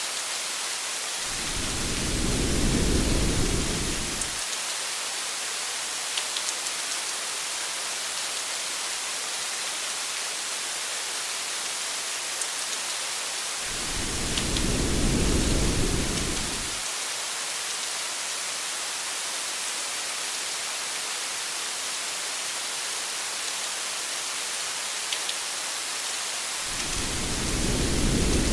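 Steady rain hiss, heard as rain falling on a car, with a few faint drop ticks. Low thunder rumbles three times: about a second in, at about the midpoint, and near the end, each lasting about three seconds.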